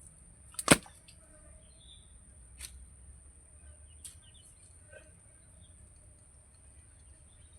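A single sharp, loud knock about a second in, then a few fainter clicks over a steady high hiss and low outdoor rumble.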